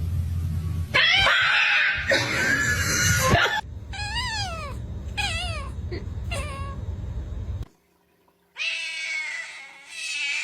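A cat meowing and yowling: a long drawn-out wail, then a few short meows that rise and fall, and after a brief break another long meow.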